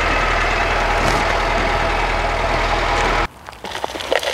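Tofaş car's engine idling steadily while its windshield washer sprays onto the glass. About three seconds in, this cuts off abruptly, and a steel shovel scrapes and drops dry soil and pebbles into a plastic bucket with scattered clicks and rattles.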